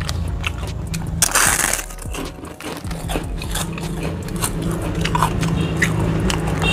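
Close-miked chewing and crunching of fried food, with many short crisp clicks and a louder crunch about a second and a half in. A steady low hum runs underneath.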